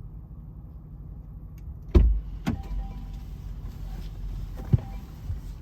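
Range Rover idling, a steady low hum heard from inside the cabin. About two seconds in a car door clunks open, letting in outside sound, followed half a second later by a knock and, near the end, a sharp click.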